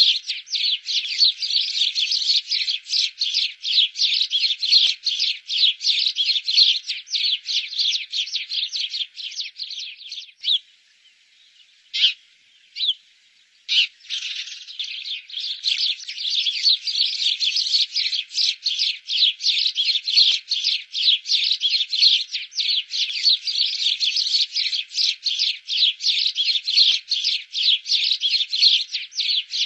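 Birds chirping, a dense run of rapid high-pitched chirps several a second. About ten seconds in it breaks off for a few seconds, with only a couple of lone chirps, then starts again.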